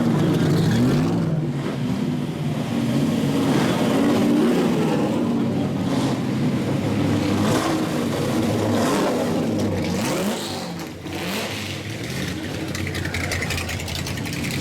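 Several classic race cars driving past one after another, their engines running and revving, the pitch rising and falling as they accelerate and shift.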